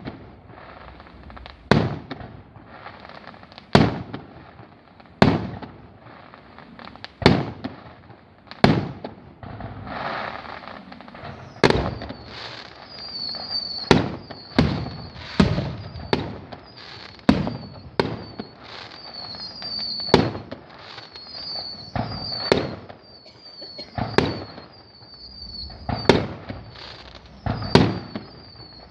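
Fireworks bursting with sharp bangs about every one and a half to two seconds, each trailing off in echo. In the second half a high wavering hiss runs between the bursts.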